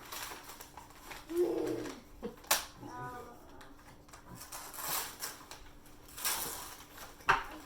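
Handling noises, rustling and a few light clicks or knocks, broken by two short wordless voice sounds.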